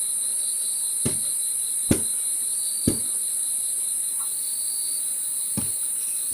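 Crickets chirping in a steady, continuous high trill, with a few soft taps about once a second early on and one more near the end.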